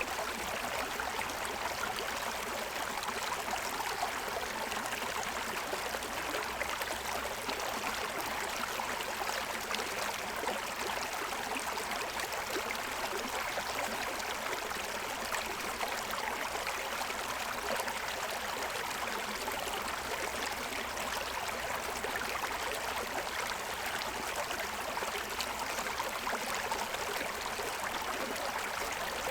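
Shallow forest stream running over stones in its bed, a steady rushing and burbling of water.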